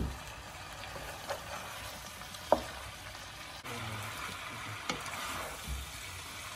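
Pork pieces and spice masala sizzling in a pot while being stirred and turned with a spatula, the hiss growing a little louder about halfway through. The spatula knocks against the pot a few times, most sharply about two and a half seconds in.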